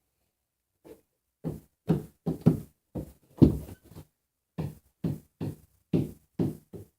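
About a dozen dull knocks at an uneven pace, starting about a second in.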